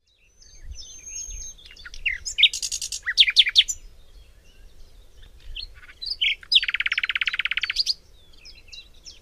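Songbirds singing: a mix of short chirps and whistles, with a high buzzy trill about a quarter of the way through and a loud, fast trill lasting about a second about two-thirds of the way through.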